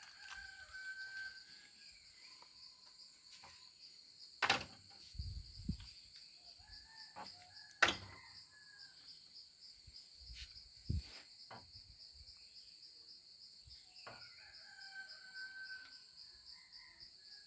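A rooster crowing faintly three times, about seven seconds apart, over a steady high buzz of insects. A few sharp clicks stand out, the loudest about eight seconds in.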